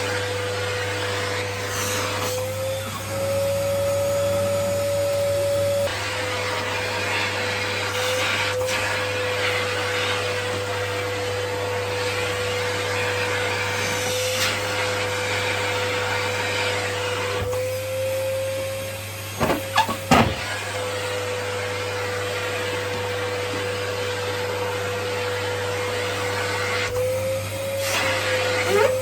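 Vacuum cleaner running steadily, its motor whine over a rush of air; the whine rises in pitch a few times as the nozzle is sucked onto bare skin of the legs and blocked. About two-thirds of the way through come a few sharp pops, the loudest moment.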